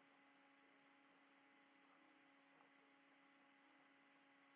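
Near silence: a faint, steady electrical hum in the recording.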